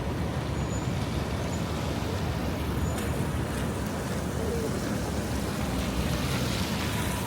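Steady city street noise in the rain: road traffic and falling rain blend into an even hiss over a low rumble.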